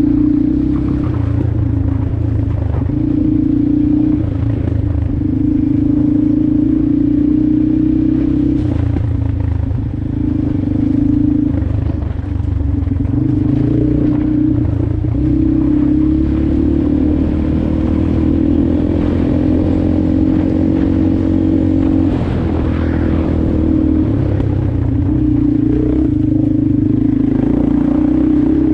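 Motorcycle engine running while riding, its note holding steady and then dropping and picking up again several times as the throttle is eased and reopened.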